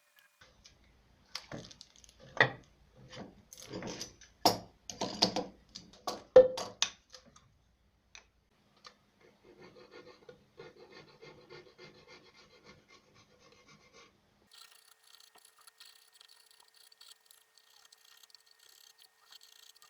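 Wood being worked with a hand tool: a series of loud scraping strokes over the first several seconds, then quieter, quicker rubbing strokes.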